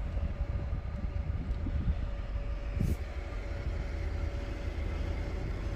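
2011 Nissan Patrol idling with its air conditioning switched on: a steady low rumble with a faint steady hum over it, and a single thump about three seconds in.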